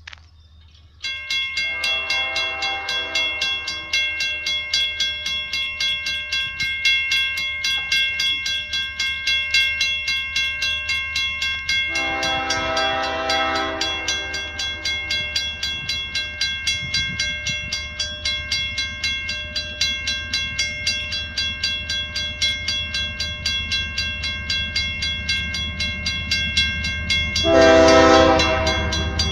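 Level-crossing warning bell starts ringing about a second in and keeps clanging rapidly. Meanwhile the horn of an approaching Canadian Pacific train sounds three times, the last blast the loudest. The low rumble of the train builds near the end.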